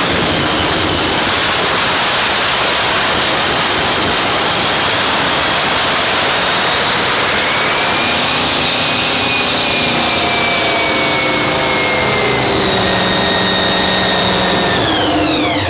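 Nitro Funny Car's supercharged V8 running very loud during its engine warm-up, with a high whine that climbs about halfway through and then eases. Shortly before the end the engine is shut off and its pitch falls away quickly as it winds down.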